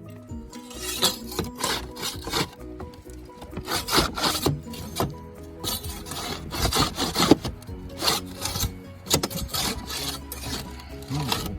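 Hand-tool scraping or rubbing on roofing material: irregular rough strokes, several a second with short pauses, over background music.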